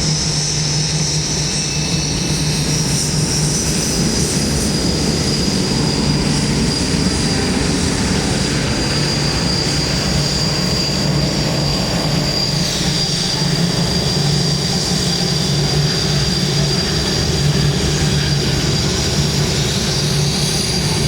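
Boeing 787-8's Rolls-Royce jet engines running with a steady high whine over a low rumble; the whine drops slightly in pitch about twelve seconds in.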